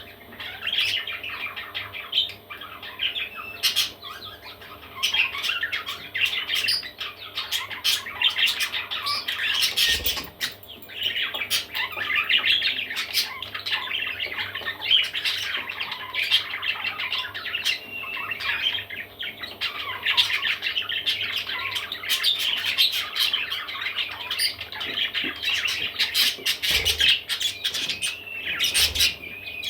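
Parrot chicks squawking and chirping in a near-continuous stream of short, high calls, with a few sharp clicks.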